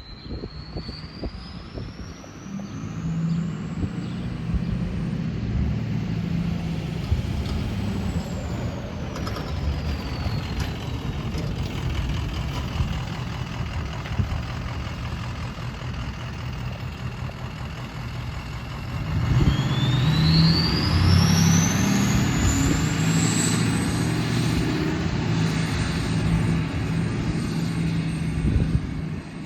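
Ford 6.0L Powerstroke V8 turbo-diesel running through a straight-piped exhaust, its deep rumble twice building louder, the second time from about two-thirds of the way in. A high turbo whistle climbs with it each time and falls away in between.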